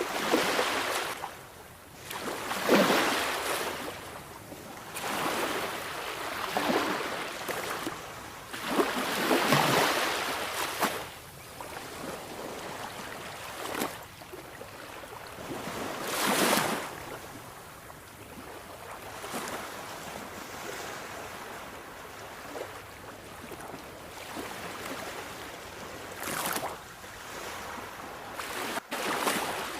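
Sea waves breaking and washing on a shore, rising and falling in surges of surf every few seconds. The biggest surges come about 3, 10 and 16 seconds in, with calmer wash between them.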